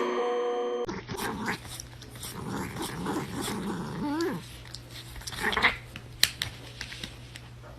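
A dog growling in short, uneven bouts with some higher whining calls, after a brief steady tone that cuts off under a second in.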